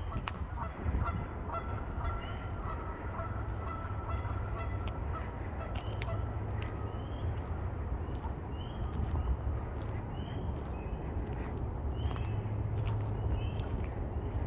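A chorus of spring peepers at dusk: many short rising peeps repeating steadily, overlapping from several frogs, over a steady low rumble.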